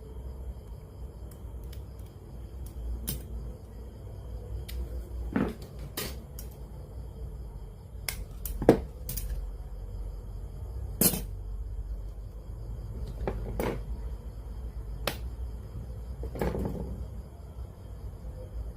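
Scattered light clicks and knocks of tools and small parts being handled while repairing a cassette player, a dozen or so at irregular intervals, the sharpest about nine seconds in, over a steady low hum.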